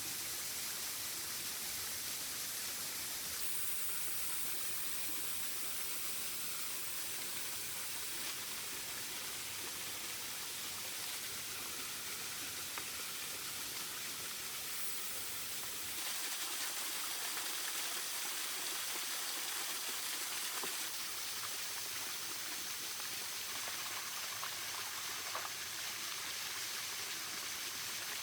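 Steady rush of flowing, falling water from a small waterfall. Its tone changes abruptly about 3.5 and 16 seconds in.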